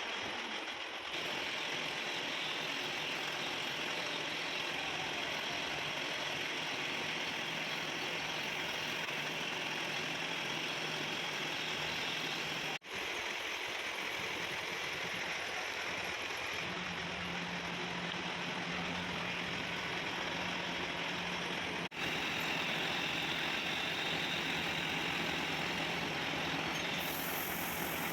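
Machine tool running steadily in a workshop, a constant even hiss of machining noise. It breaks off for an instant twice, and a low steady hum joins a little past halfway.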